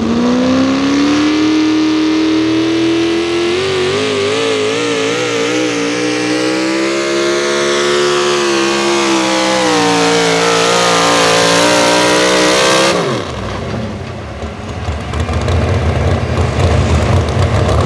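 A 4x4 pickup truck's engine at full throttle pulling a weight sled: it revs up as the run starts, holds high with a wavering pitch, then drops off suddenly about thirteen seconds in as the throttle is released, leaving a lower rumble.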